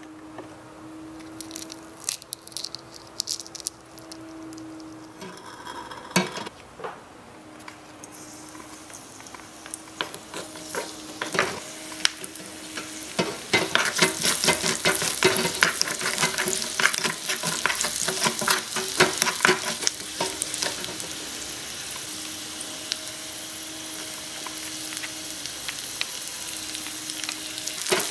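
Food frying and sizzling in a miniature metal wok while a small wooden spatula stirs and scrapes it, with many quick clicks and scrapes. A few light taps come first, and the sizzle grows louder about halfway through.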